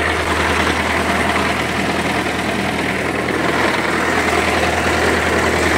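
Tractor engine running steadily with the power take-off engaged. The PTO has failed and does not drive the mower shaft.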